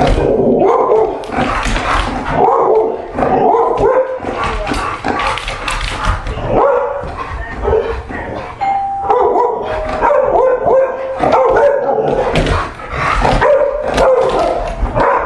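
A doorbell ringing again and again at the front door, with a dog barking repeatedly.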